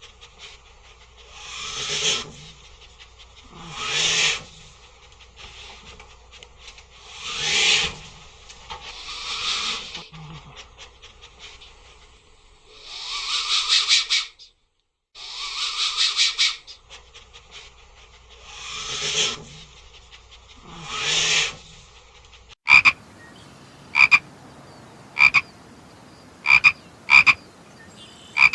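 Repeated animal calls, each a rapidly pulsed croak about a second long, coming roughly every two seconds. Near the end the sound changes abruptly to short, sharp chirps about once a second.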